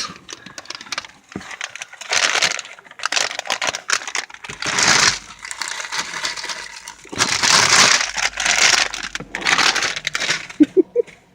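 Potato chips being crushed and a chip bag crinkling by hand, in several crackly rustling bursts with scattered clicks.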